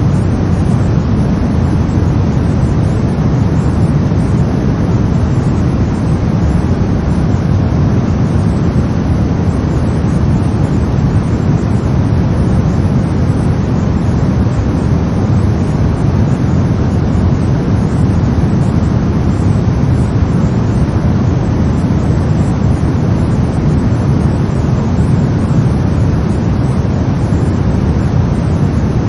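Steady brown noise: an even, deep rumbling hiss, strongest in the bass and fading toward the highs, with no changes or events.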